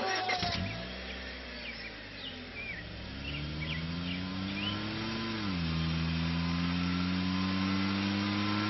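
Tata Indica hatchback pulling away: its engine note climbs as it accelerates, drops sharply at a gear change about five seconds in, then climbs again slowly in the next gear.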